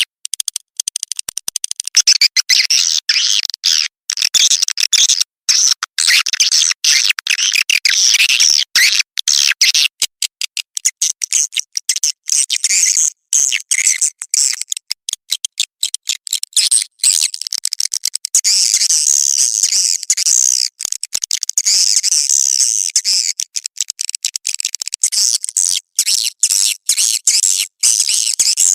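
Swiftlets calling in a dense, continuous chorus of high-pitched twittering chirps, broken by many brief gaps, as on the recorded calls played to lure swiftlets into a nesting house.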